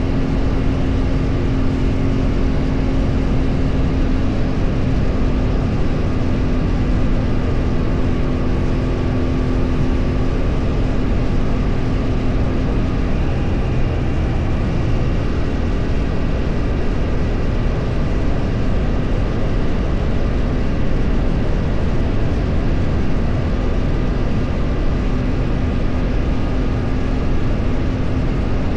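A vehicle running on the road: a steady low rumble with a held engine hum that changes pitch about 13 seconds in, then settles again.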